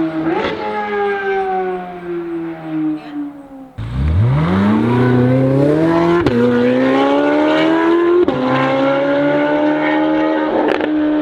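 C8 Corvette Z06's flat-plane-crank V8 through an AWE exhaust at high revs, its note falling as the car eases off, then, after a cut, accelerating hard from low revs with a steeply rising wail and two quick upshifts before holding high revs.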